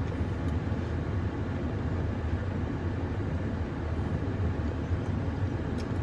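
Steady low rumble of a pickup truck's engine idling, heard from inside the cab.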